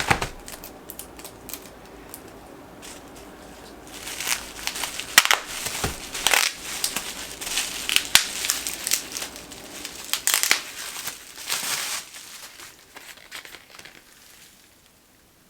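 Paper packaging being unwrapped by hand, crinkling and rustling in quick crackles. It is busiest in the middle and quiets down near the end.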